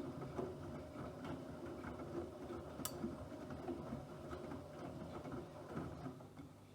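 Bosch WFP3231 front-loading washing machine running a wash, its drum turning and tumbling the load with a steady motor hum and irregular knocks, one sharper click about three seconds in. The drum sound dies away near the end as the drum pauses, leaving a quieter steady hum.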